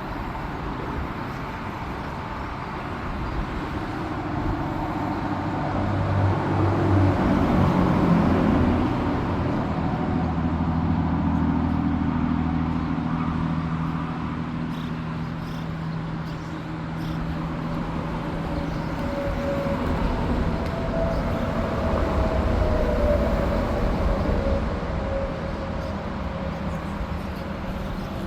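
Steady rumble of engine noise. A motor hum swells about six seconds in and fades out by about seventeen seconds.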